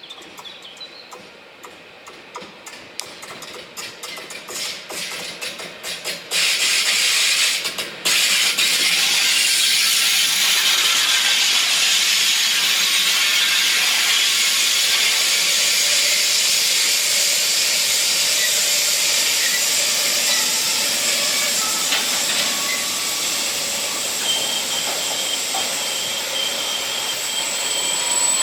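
A train passing close on the line. Its wheels click more and more loudly over the rail joints, then from about six seconds in the passing train makes a loud, steady rushing hiss. Faint high squeals of wheels on rail show near the end.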